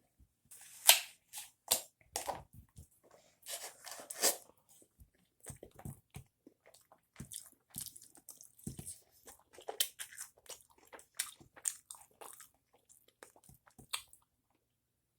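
A person chewing and eating a Hawaiian sushi bowl close to the microphone: short, irregular mouth and chewing sounds, several a second with brief pauses.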